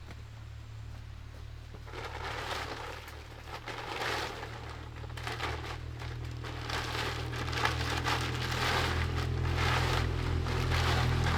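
Irregular rustling and crinkling that starts about two seconds in and grows louder, over a steady low hum.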